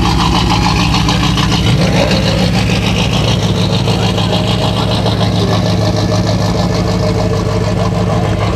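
Car engine running steadily with a low, even drone.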